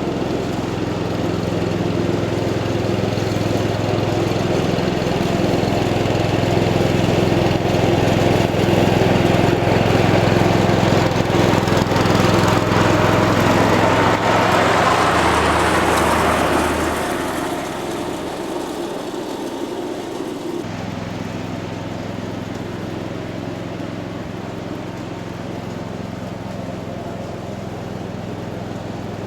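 1978 Cub Cadet 1000 garden tractor's engine running steadily under load while mowing with the deck engaged. It grows louder through the middle and drops back to a lower, even level about 17 seconds in.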